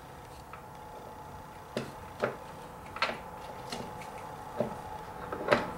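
Irregular metal clunks and knocks, about five, as a mower gearbox is worked into place and its gears matched up; the last knock, near the end, is the loudest. A faint steady hum runs underneath.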